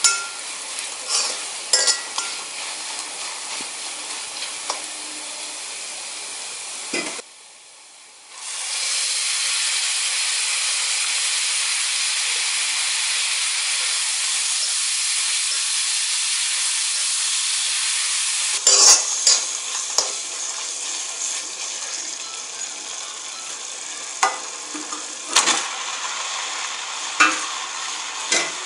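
Onions, garlic and curry leaves frying in oil in a steel kadai, with a metal spatula scraping and clinking against the pan as it stirs. About eight seconds in the sizzle comes back louder and steady for about ten seconds as chopped tomatoes fry, then the spatula's scrapes and clinks return over a softer sizzle.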